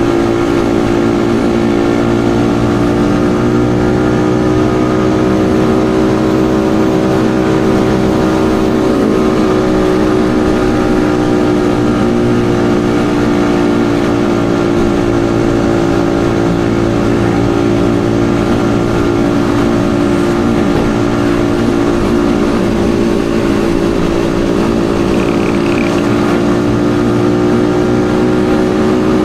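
Yamaha XSR155's single-cylinder 155 cc engine running at a steady cruising pace while riding, its pitch dipping slightly about eight seconds in and then holding even.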